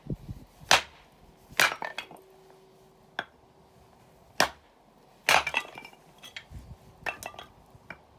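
Campfire of burning firewood crackling: sharp, irregular snaps, some single and some in quick clusters of two or three, with short quiet gaps between.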